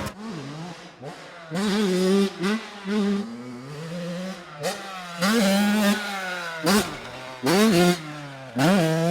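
Small-displacement motocross bike engine revving hard. Its pitch rises sharply and then holds, about six times over, as the bike accelerates through the gears.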